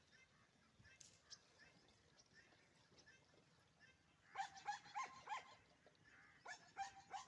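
A dog yapping: two bursts of quick, short, high barks, the first about four seconds in and the second near the end.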